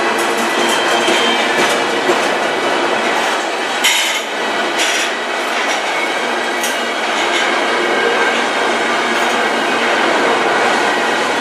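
Covered hopper cars of a freight train rolling past close by: the steady rumble and clatter of steel wheels on rail, with sharp metallic clanks about four and five seconds in.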